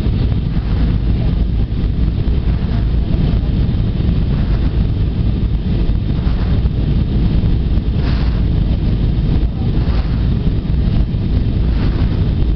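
Steady low rumble of airflow and engines inside an Airbus A320 airliner's cabin in flight.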